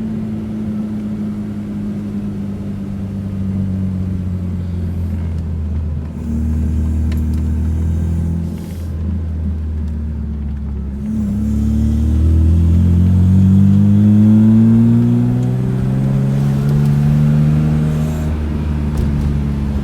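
BMW S54 inline-six in an E30 M3 under full throttle, heard from inside the car: the engine note dips briefly twice, then climbs steadily in pitch for several seconds. It is pulling weakly because the engine is in limp mode, which the driver blames on the ECU.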